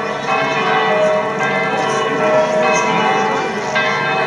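Church bells ringing continuously, several tones overlapping and changing every second or so.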